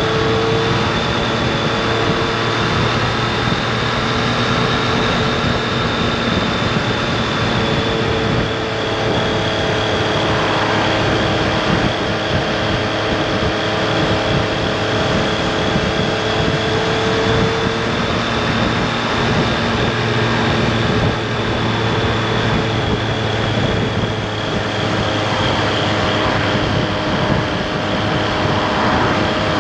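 Triumph Street Triple RS's 765 cc inline-three engine running at a steady cruise around 40 mph, its pitch barely changing, with wind and road noise over it.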